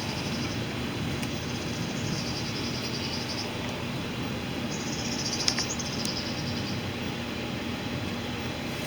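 Two rapid, high-pitched insect trills, like crickets, over a steady background hiss: one about two seconds in and a longer one about five seconds in.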